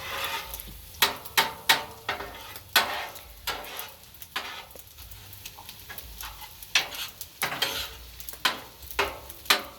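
Metal utensils scraping and clacking on a Blackstone flat-top griddle as fried rice is stirred and turned, over a steady sizzle of frying. The clacks come irregularly, about a dozen of them.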